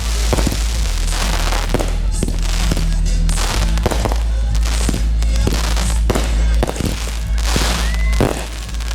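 Fireworks going off in quick succession, sharp bangs coming about one to two a second, over music with a steady low bass.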